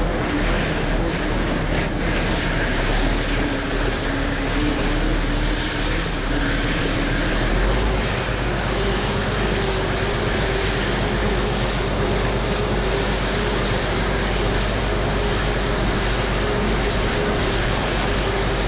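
Engine running steadily under load, its pitch stepping up about eight seconds in and then holding.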